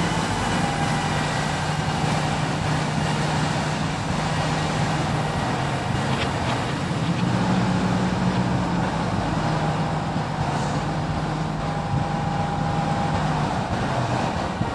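Diesel engine of heavy earthmoving machinery running steadily, with a thin whine above the engine hum and small shifts in engine pitch.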